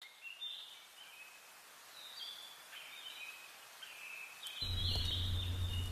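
Birds chirping in short high calls over faint outdoor background noise; a low steady hum comes in suddenly near the end.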